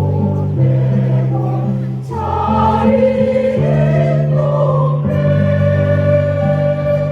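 Choir singing, holding long chords that change every second or so.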